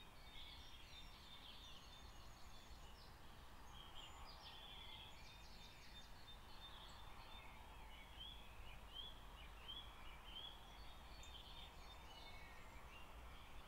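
Faint birdsong: a continuous run of quick chirps, short trills and whistled notes, over a low steady rumble.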